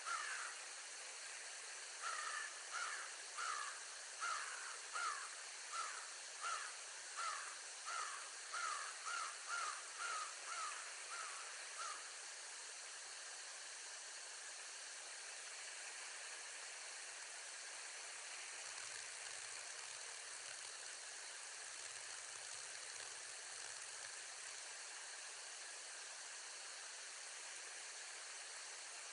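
Bald eagle calling: a series of about fifteen high, piping notes that come faster and faster, ending about twelve seconds in, over a steady hiss.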